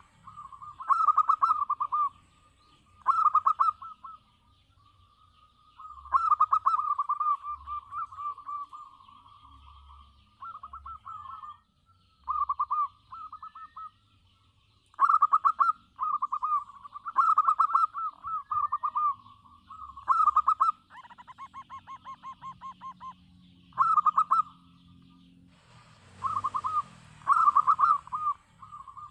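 Zebra dove (local perkutut) singing: repeated short phrases of rapid staccato cooing notes, with brief pauses between phrases.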